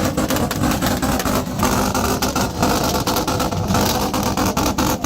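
Car engine held at steady revs on a two-step launch limiter, its exhaust crackling with rapid, irregular pops and bangs.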